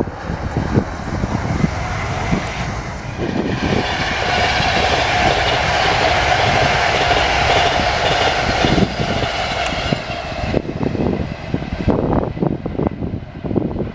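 A train passing, its noise swelling a few seconds in, holding for about six seconds with a steady tone, then falling away. Wind buffets the microphone throughout.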